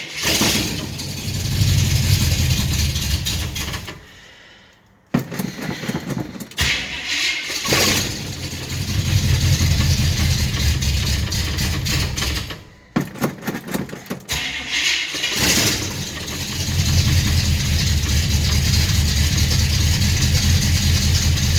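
1974 Chevrolet Suburban's V8 cold-starting with no choke hooked up. It catches and runs, dies about four seconds in, is restarted, falters again past halfway and then keeps running steadily through headers and a leaky, tacked-together exhaust.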